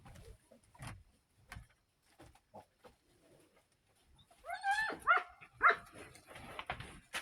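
A dog gives three short, high, yelping barks in quick succession about four and a half seconds in, each bending in pitch, after a few seconds of scattered faint knocks.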